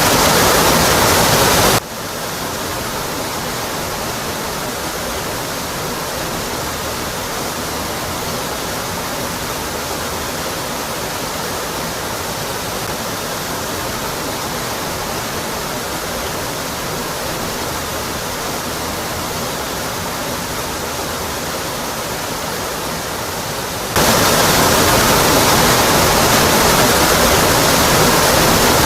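Steady rush of a waterfall, water falling onto rock. About two seconds in the sound drops suddenly to a softer, thinner rush, and it jumps back to the full, louder roar a few seconds before the end.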